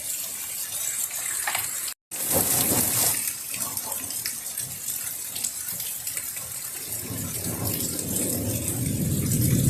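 Heavy rain falling steadily, a dense hiss, with a low rumble building over the last few seconds. The sound drops out briefly about two seconds in.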